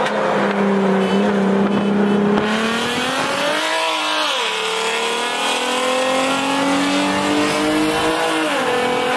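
Car engine under hard acceleration. Its note climbs, drops briefly about four seconds in and again near the end as it shifts up, then climbs again, over road and wind noise.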